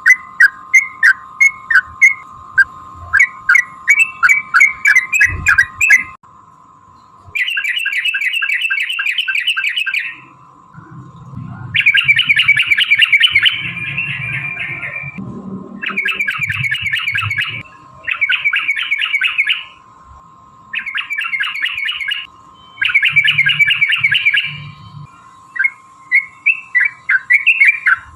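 Yellow-vented bulbul (trucukan) calling: a string of short sharp notes, then long fast chattering rolls of two to three seconds each with short pauses between, and short notes again near the end. A steady high hum runs beneath much of it.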